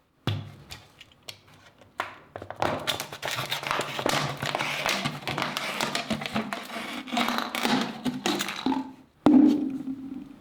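Hand work on a rusty metal survival knife: a dense run of scraping and small clicks and taps, then one sharp knock near the end with a brief low ring after it.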